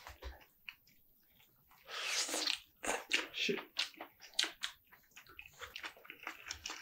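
A person biting into and chewing a mouthful of sliced turkey wrapped in onion slices with mustard, close to the microphone. About two seconds in it turns into a string of wet smacks and crisp crunches.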